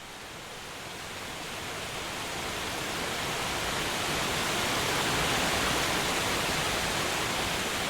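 Waterfall, a steady rush of falling water that grows gradually louder over the first five seconds, then holds steady.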